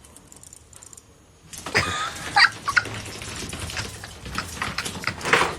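Sounds of a pet cat or dog with clicks and rustling, starting about a second and a half in, with a few short pitched cries and a louder burst near the end.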